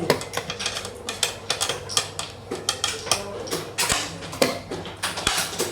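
Rapid, irregular clatter of sharp clicks and clacks from hard objects knocking together, a couple of dozen in a few seconds.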